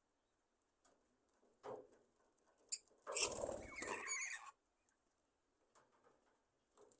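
Budgerigars in an aviary: faint scattered scratching and shuffling, then about three seconds in a louder flurry of wing-flapping that lasts about a second and a half.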